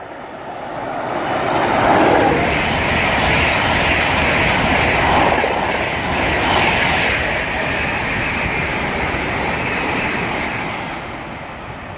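Intercity express train running through the station at speed without stopping: a rush of wheel and air noise that builds over the first two seconds, holds steady while the carriages pass, and fades near the end.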